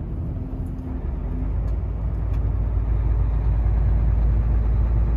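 Volvo truck's diesel engine and road noise droning inside the cab while driving, a deep rumble that grows louder about a second in.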